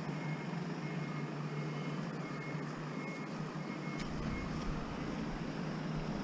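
A vehicle engine running with a steady hum; a deeper rumble joins about four seconds in.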